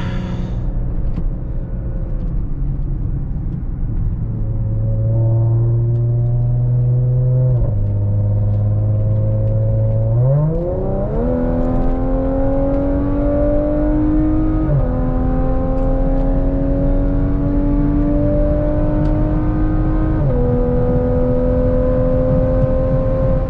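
2017 Audi SQ5's supercharged 3.0 V6 with AWE non-resonated downpipes and Touring catback exhaust, heard from inside the cabin under hard acceleration. The revs flare quickly as it drops a gear about ten seconds in, then climb steadily, falling back briefly at two upshifts.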